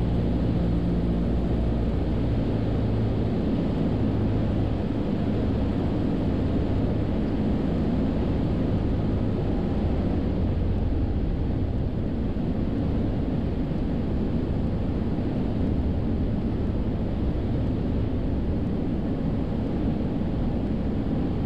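Cessna 172 piston engine and propeller droning steadily in flight.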